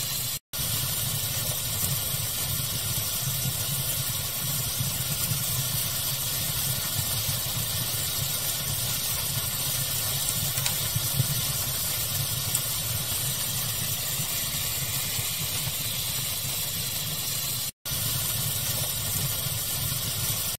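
Steady pink-noise and fire ambience: a constant hiss with a few faint crackles near the middle. It cuts out completely twice for a split second, once just after the start and once near the end.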